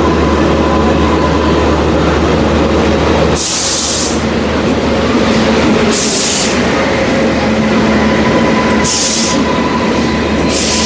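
Passenger train at a station platform: a steady low hum that stops about three seconds in, then four short hisses.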